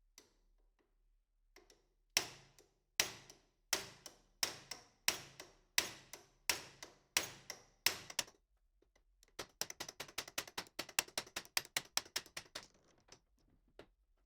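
Nine sharp knocks about two-thirds of a second apart, each ringing briefly, then a quick run of lighter clicks, about eight a second for some three seconds.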